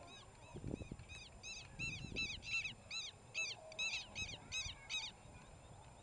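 A bird's harsh alarm calls in a fast series, about three a second, growing louder and then stopping about five seconds in: the cries of a bird attacking an intruder in its territory.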